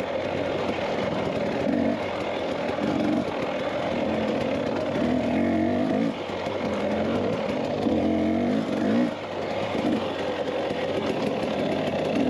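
Dirt bike engine under way, its pitch rising and falling several times as the throttle is worked.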